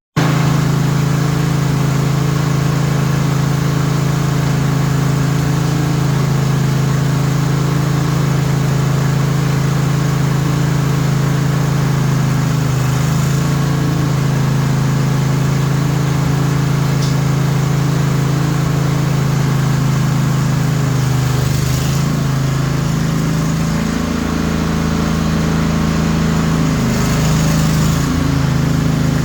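Lawn tractor's 21 hp Briggs & Stratton Intek engine running steadily at a constant speed, with slight shifts in pitch near the middle and toward the end.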